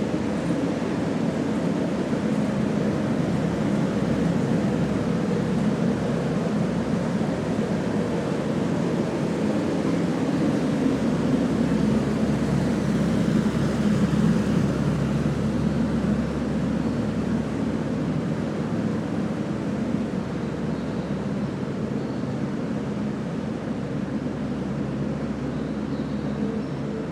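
Steady low rumbling drone of an underground passage's air handling and machinery, with a faint hum over it, swelling a little about halfway through and easing again.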